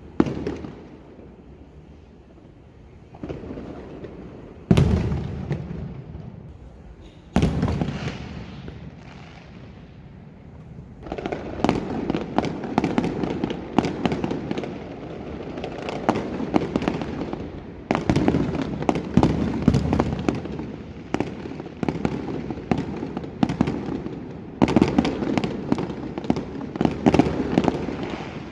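Fireworks going off: a few single loud bangs at intervals in the first few seconds, then from about a third of the way in a dense, continuous barrage of crackling pops that thickens again near the end.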